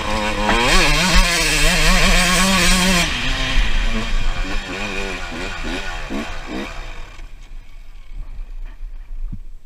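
Two-stroke 125 cc dirt bike engine revving with its pitch rising and falling. It is loudest for the first three seconds, then weakens and fades out about seven seconds in.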